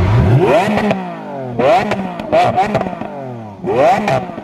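Lamborghini Aventador SV's V12 engine revved hard while standing still: about four quick blips of the throttle, each rising sharply and falling back, with crackles from the exhaust.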